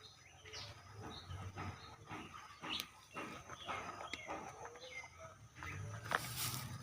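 Birds chirping in short, scattered calls, mixed with clicks and rustling, and a louder rustle about six seconds in.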